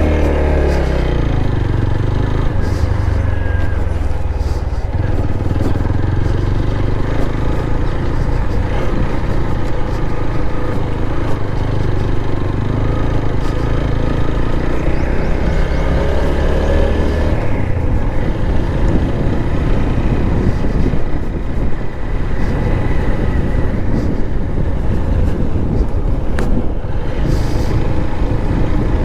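Motorcycle running steadily at road speed, with heavy wind rumble on the microphone.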